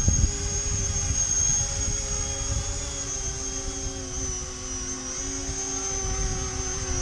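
E-flite Convergence VTOL's three brushless electric motors and propellers whining steadily while it hovers, their pitch wavering slightly as they hold it in gusts. Wind rumbles on the microphone, strongest in the first second or so.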